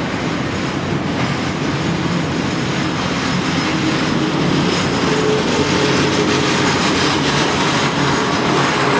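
Double-stack intermodal container well cars rolling past close by: a steady rumble of steel wheels on rail. A faint wheel squeal comes in near the middle.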